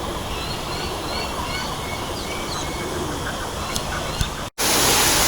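Birds calling, a quick run of short repeated chirps over a steady background hum. Near the end the sound cuts out for an instant and gives way to a louder, even rushing noise.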